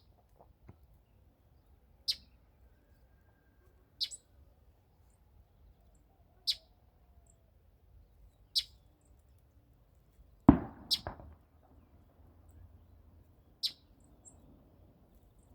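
Northern mockingbird giving a short, sharp, high call every two seconds or so. A loud thump, with a second knock just after it, falls about ten and a half seconds in.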